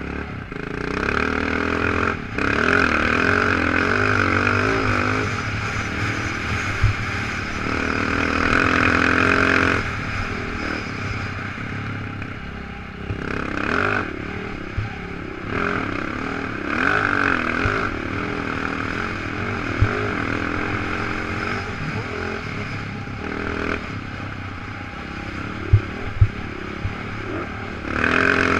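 Motorcycle engine running under way, its pitch rising and falling as the throttle opens and closes, with a few short knocks and clatter as the bike rides over rough ground.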